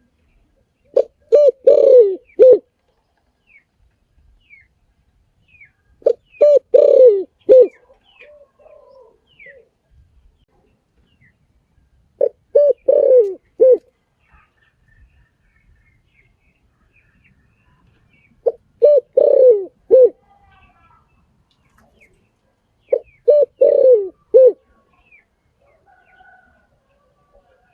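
Spotted dove cooing: five phrases, one every five to six seconds, each a short run of low coos with a longer note that slides down in the middle. Faint chirps of small birds sound between the phrases.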